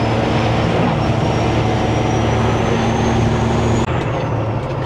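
Semi-truck diesel engine running steadily at highway cruise, heard from inside the cab with road and wind noise, and a faint high whine slowly rising in pitch. About four seconds in, the high hiss and whine drop away abruptly.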